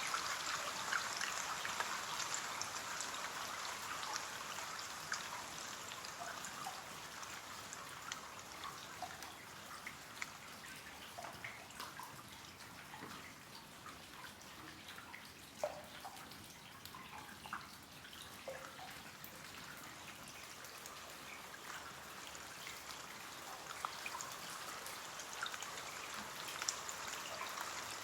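Steady patter of rain on a window, with scattered individual drops ticking and dripping. It eases off somewhat in the middle and builds again near the end.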